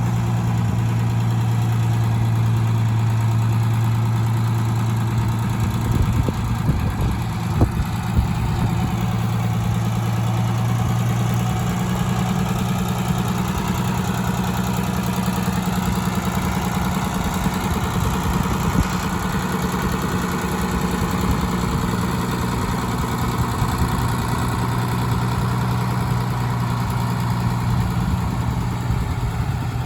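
1981 International F-786 tractor's diesel engine idling steadily, with a few sharp knocks about six to eight seconds in.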